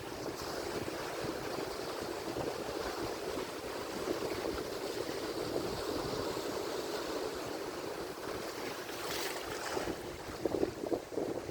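Atlantic Ocean waves washing onto the shore in a steady surging rush, with a brief brighter hiss about nine seconds in as a wave breaks and foams.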